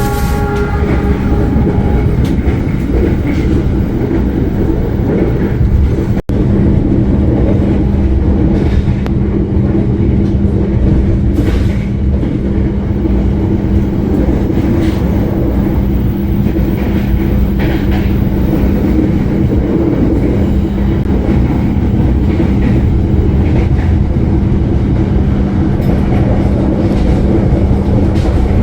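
Passenger train running at speed, a steady rumble with a constant low hum throughout, broken off for an instant about six seconds in.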